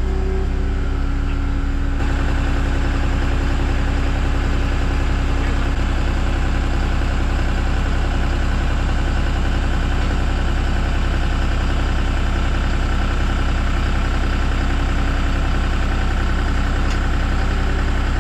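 Skid steer engine running steadily under light load while lifting an engine block.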